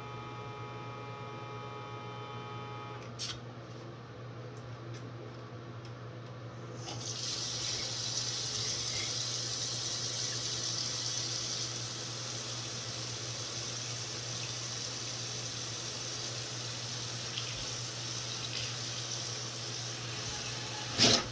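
A steady hum, then a sharp click about three seconds in. About seven seconds in, a loud, steady rush of running water like a tap into a sink starts and keeps going.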